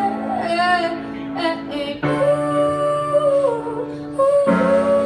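A singer's voice running through a wordless vocal line of bending notes, then holding long notes, over a steady instrumental backing.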